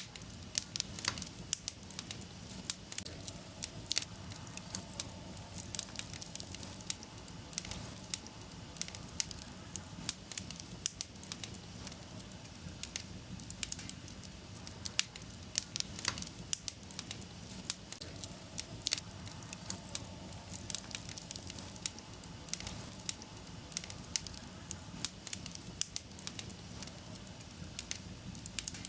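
Wood fire crackling in a fireplace: frequent irregular sharp pops and snaps over a steady low noise of the burning fire.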